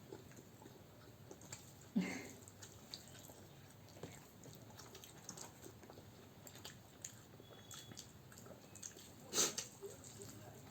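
Quiet eating sounds: chewing and small wet clicks of food being eaten by hand, with a short vocal sound about two seconds in and a louder brief crackle near the end.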